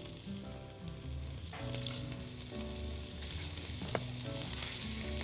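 Kofta just laid into a hot, lightly oiled frying pan, sizzling steadily, with a light click about four seconds in.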